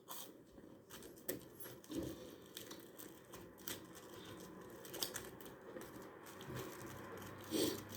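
Close-up eating sounds: soft crackling, small mouth smacks and scattered clicks as food is chewed, with a short louder mouth sound near the end.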